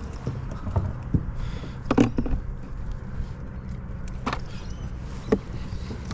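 A few scattered knocks and clicks of fishing gear and a landed fish being handled on a kayak, over a faint low steady hum.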